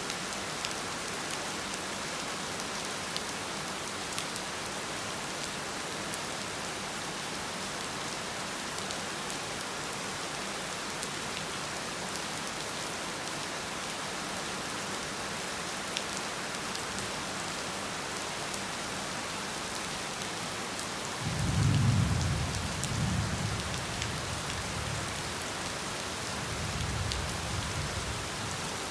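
Heavy rain falling steadily, with single drops ticking on a surface. About two-thirds of the way through, a low thunder rumble rolls in, peaks quickly, then fades with a weaker second swell near the end.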